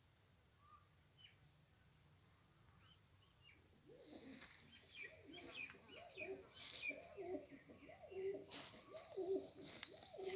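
Domestic pigeons cooing, a run of repeated low calls that starts about four seconds in, with a few faint higher chirps before it.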